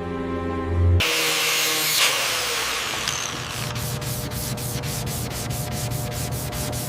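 Sanding on car bodywork: a rasping rub that starts suddenly about a second in and settles into a fast, even rhythm of strokes.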